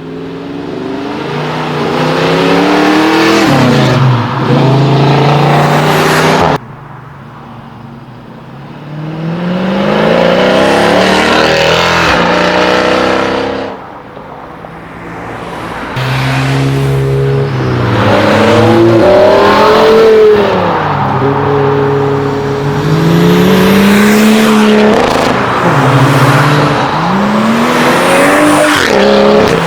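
Several modified cars accelerating hard one after another, each engine revving up with its pitch rising and then dropping again at the gear changes. The sound cuts off suddenly about six seconds in and again about fourteen seconds in, as one car gives way to the next.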